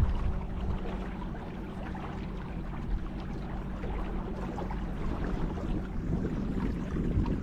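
Wind and water noise on a kayak moving down a river, with a steady low hum underneath.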